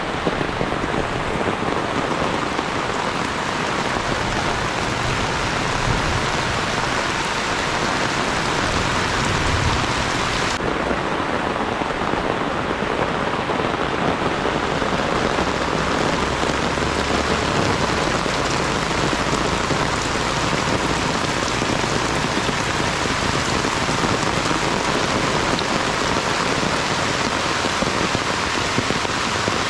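Rain falling steadily, an even, unbroken wash of sound.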